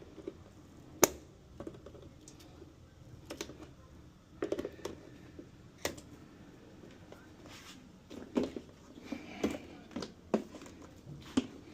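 Irregular clicks and light knocks, as of tools and parts being handled, with one sharp click about a second in and more clusters of knocks in the second half.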